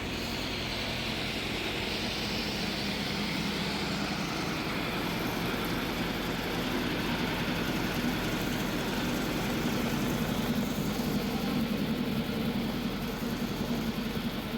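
A motor or engine running steadily, with a low hum under a dense, even noise.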